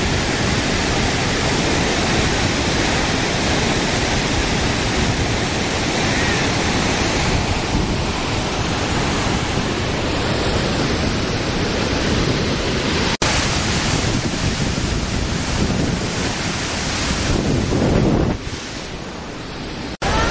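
The Great Falls of the Passaic River running high after Hurricane Irene: a loud, steady rush of falling water, with wind on the microphone. The sound cuts out for an instant twice, and is quieter for the last couple of seconds.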